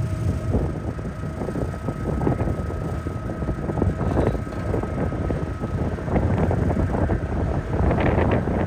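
Wind buffeting the microphone over a steady low engine rumble, with a faint steady tone in the first part.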